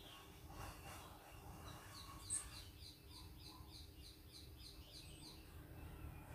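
Faint bird chirping: a quick run of about a dozen high chirps, roughly three a second, with one sharp tick early in the run. A low steady hum lies underneath.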